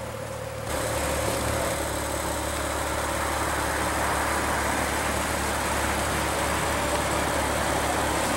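Maserati Ghibli's 3.0-litre twin-turbo V6 idling steadily, heard from beside the car; the sound steps up suddenly less than a second in and then holds even.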